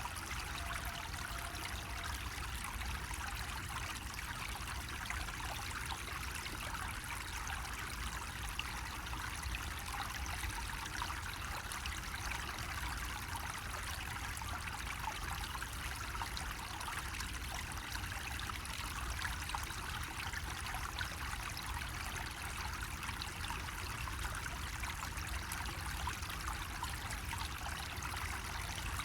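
Water running steadily from a bamboo faucet, trickling and splashing without a break.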